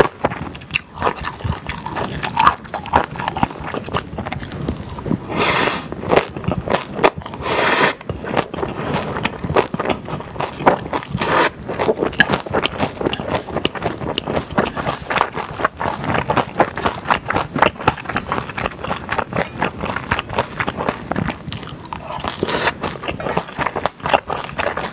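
Close-miked wet chewing of spicy beef-brisket yakisoba noodles, with rapid mouth clicks and smacks, broken by a few short slurps about six, eight and eleven seconds in and again near the end.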